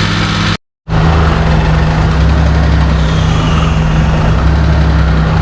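Suzuki Carry kei truck's 660 cc three-cylinder engine idling with an uneven, wavering low end, the unstable idle of an engine running rough. Its idle setting has just been readjusted. The sound cuts out briefly under a second in.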